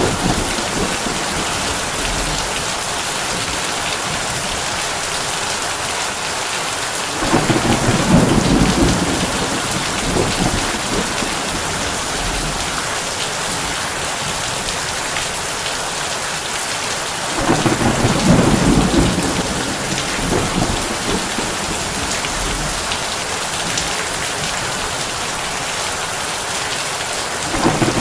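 Heavy rain drumming steadily on a tin roof, with low rolls of thunder swelling up about every ten seconds: once about seven seconds in, again around seventeen seconds, and once more at the very end.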